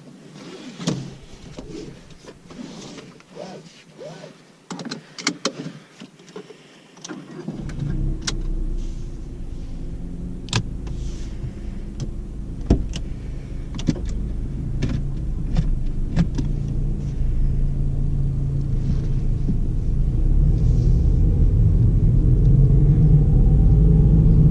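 Inside a 2009 Ford Fiesta 1.4 automatic: first a few clicks and knocks in the cabin. About a third of the way in, the 1.4-litre four-cylinder engine and road rumble come in and grow steadily louder as the car picks up speed, with the engine note rising near the end.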